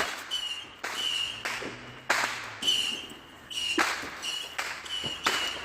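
Fireworks going off in the distance: a series of sharp bangs, each ringing on briefly, with a high whistling tone that repeats in short flat blasts between them.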